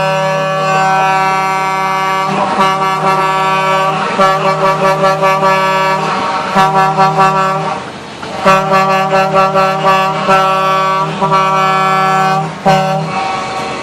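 Truck air horns blowing loud multi-tone chords, alternating long held blasts with quick runs of short toots, with brief breaks between; the horns stop shortly before the end.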